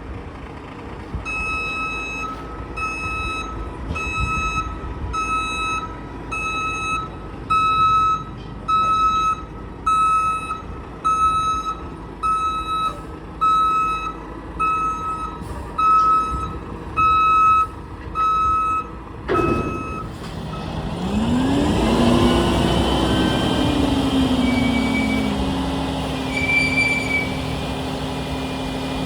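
A heavy truck's reversing alarm beeping steadily, just over one beep a second, while the truck backs up. It stops about 19 seconds in, and the truck's running noise swells, with a low tone that rises and falls in pitch.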